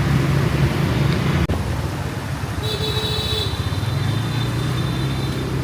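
Road traffic with a steady low engine hum, as from motorbikes in city streets. A thin high-pitched tone comes in about halfway through and lasts a couple of seconds.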